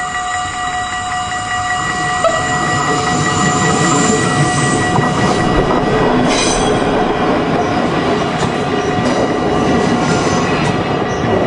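NS double-deck electric passenger train passing close by, its wheels rumbling and rattling over the rails. The sound swells about two seconds in, with a brief high-pitched squeal about six seconds in.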